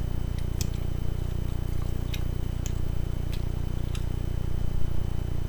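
Mouth sounds of eating a chicken wing: chewing with a few short wet clicks and smacks scattered through, over a steady low hum.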